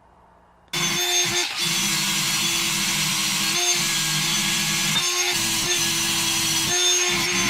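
Handheld electric power tool working on a steel steering knuckle to clean it down. It starts about a second in and runs at a steady pitch, with brief dips several times as it bears on the part.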